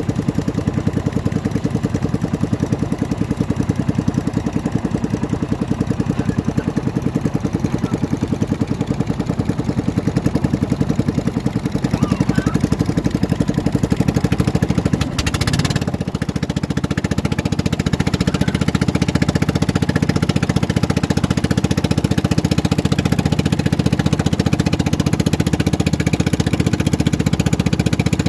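Small boat engine running steadily with a fast, even beat, dipping briefly about halfway through.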